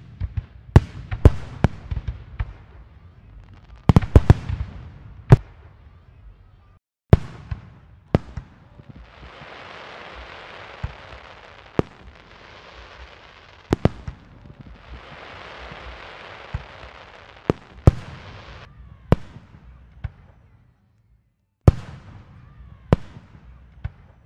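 Fireworks display: a run of sharp bangs from shells bursting at irregular intervals, several in quick clusters. Two stretches of steady hissing come in the middle.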